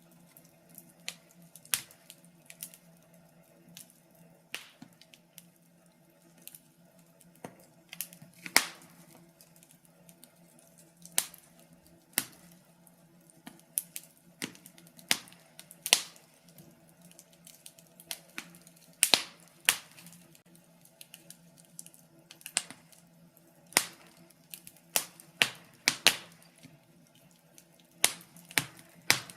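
Wood fire in a fireplace crackling: irregular sharp pops and snaps from the burning logs, about one or two a second, some much louder than others, over a faint steady low hum.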